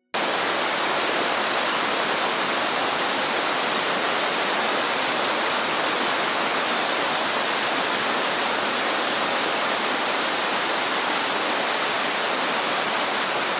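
Waterfall pouring, a steady dense rush of water that cuts in abruptly just after the start and then holds at an even level.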